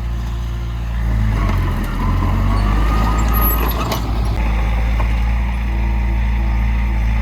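Heavy diesel earthmoving machinery running steadily, with a rougher, noisier stretch between about one and four seconds in and a single sharp click near four seconds.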